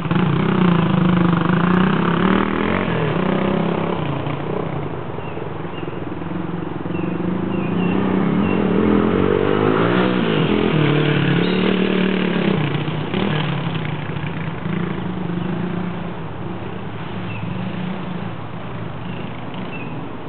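Single-cylinder dual-sport motorcycle engines revving up and down as dirt bikes ride laps. The sound is loudest about a second in and again midway, and falls off near the end as the bikes move away.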